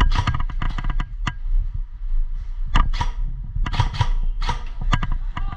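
Airsoft guns firing: a quick run of sharp shots in the first half second, then scattered single shots, over a low wind rumble on the microphone.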